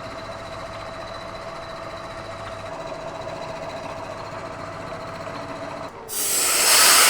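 Bridgeport milling machine running a half-inch four-flute end mill along a steel edge: a steady mechanical hum with a faint whine. About six seconds in, a much louder, even hiss starts.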